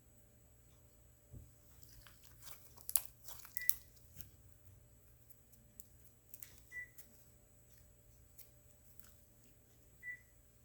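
Slime being squeezed and stretched by hand, giving a quick run of small crackling pops and clicks about three seconds in, then scattered single clicks. Three short high blips sound about three seconds apart.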